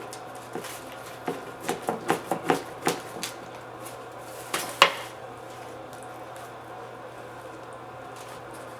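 Cutlery clinking and knocking against a plate in a quick irregular run of sharp taps, the loudest near the end of the run, as pizza is worked at on the plate; after that only a faint steady hum remains.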